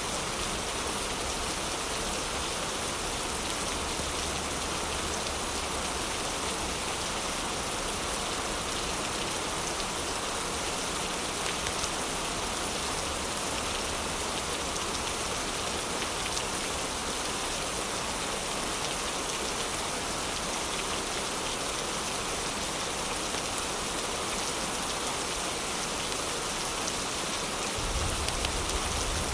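Heavy rain falling steadily, an even dense hiss of drops. A low rumble grows louder about a second before the end.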